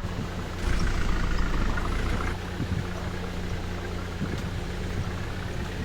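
Truck engine running steadily, a little louder for a second or two near the start.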